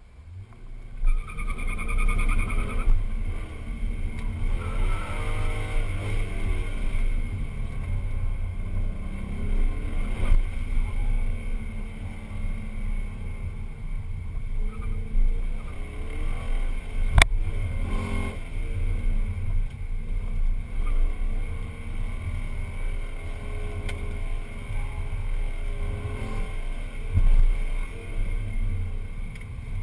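A 2006 Pontiac GTO's 6.0-litre V8, heard from inside the cabin, launching hard about a second in and then revving up and down as it accelerates and brakes between cones, over steady wind and road noise. One sharp knock about seventeen seconds in.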